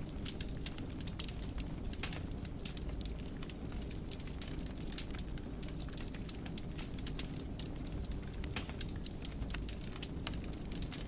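Fire crackling in a fireplace: many quick, irregular pops and snaps over a steady low rumble.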